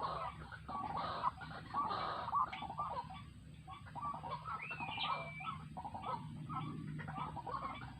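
White-breasted waterhens (ruak-ruak) calling: many short, repeated calls overlap one another, with a higher rising-then-level note about five seconds in. A steady low hum runs underneath.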